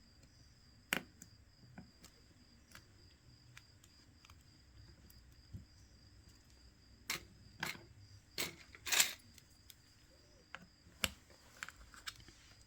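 Scattered sharp clicks and light taps from handling a smartphone and small repair tools on a workbench, several in quick succession in the middle with one short scraping rasp.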